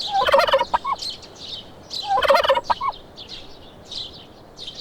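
A turkey gobbling twice, two rapid warbling calls about a second each, the first at the start and the second about two seconds in, with small birds chirping throughout.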